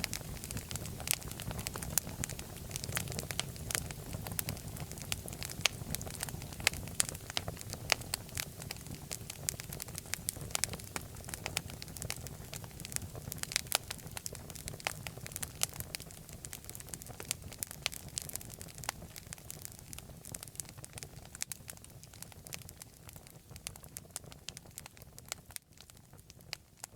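Fireplace fire crackling and popping with sharp snaps over a low rumble of flames, growing quieter in the last few seconds.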